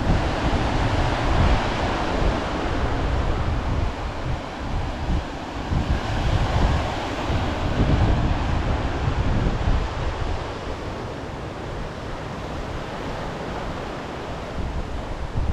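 Wind buffeting the camera microphone in uneven low gusts, over a steady rush of sea surf breaking on the shore that swells and eases every few seconds.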